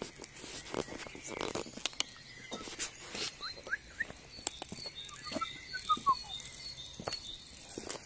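Small birds chirping short, quick notes, with a quick run of rising notes around the middle. Irregular clicks and rustles run throughout.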